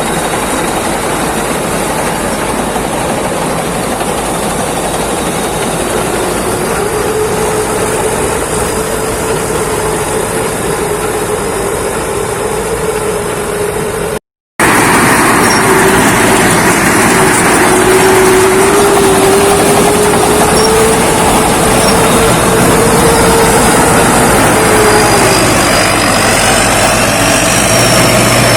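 Rice combine harvester (Thai Seng Kan Kaset 'Chao Phayu') running steadily under load, its engine and machinery making a loud continuous drone with a faint tone that wavers slowly. The sound drops out for a moment about halfway, then comes back louder.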